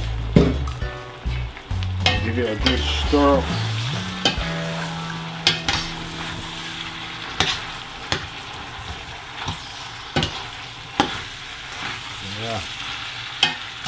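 Onions, tomatoes and other vegetables sizzling in hot oil in a stainless steel pot as a spoon stirs them, with a steady hiss and the spoon clicking against the pot every second or two.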